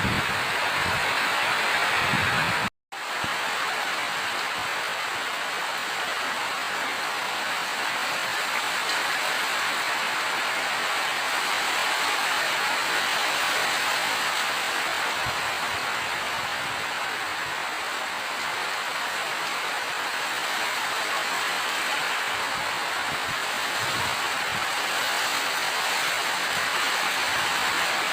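Steady rain falling, an even hiss with no let-up. It cuts out completely for a split second about three seconds in.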